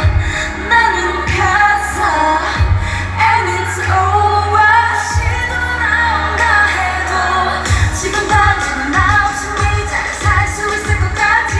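K-pop song with female vocals over a heavy bass beat, played loud at a live concert; the bass pulses on a steady beat from about two-thirds of the way in.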